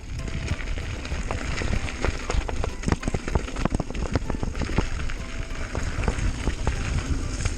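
Bike riding down a dirt trail: tyres crackling and crunching over loose ground, with many sharp clicks and knocks from the bike rattling over bumps and a steady low rumble.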